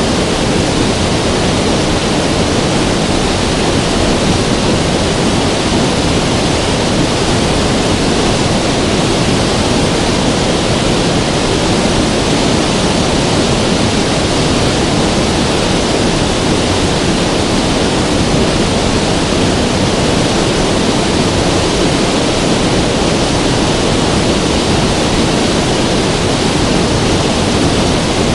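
River water rushing, a steady, unbroken roar without changes.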